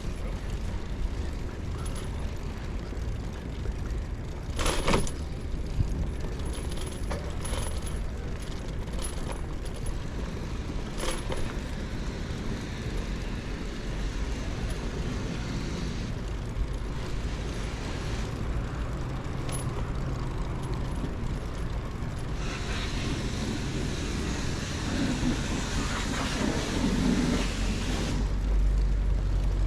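City street traffic heard from a bicycle: a steady low rumble of vehicles, with a few sharp clicks and rattles, and traffic noise swelling as vehicles pass near the end.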